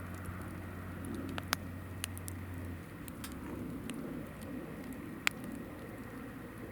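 Hinoki (Japanese cypress) firewood burning in a campfire: sharp pops and crackles scattered over a low, sputtering flame rustle, the loudest pops about a second and a half and five seconds in. A low steady hum underneath stops about three seconds in.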